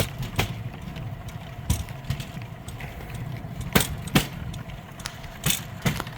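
Rail bike's steel wheels rolling along old railway track: a steady low rumble broken by sharp clacks, the later ones coming in pairs about half a second apart.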